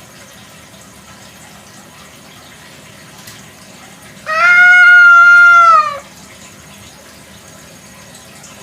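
A free-roaming Indonesian village cat gives one long, loud meow of under two seconds, starting about four seconds in, over a faint steady hiss.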